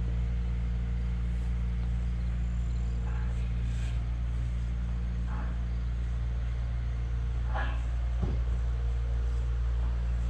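Large engine idling steadily, a low even hum.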